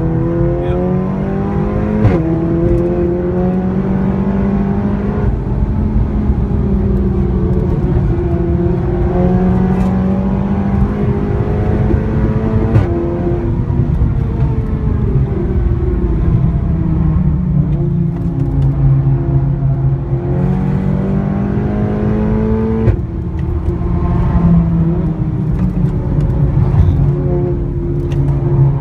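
Seat Leon Cupra's engine and loud exhaust at full throttle, the pitch climbing and then dropping several times as it shifts gears and slows for corners.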